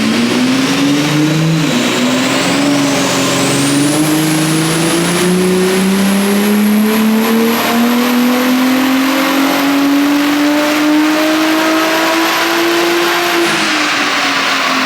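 Turbocharged VR6 engine of a VW Golf R32 making a full-throttle pull on a chassis dyno. After two brief dips in pitch in the first two seconds, the engine note climbs steadily for about eleven seconds, then falls away near the end as the run ends. A high whine rises over the first few seconds, holds, and drops off with the engine.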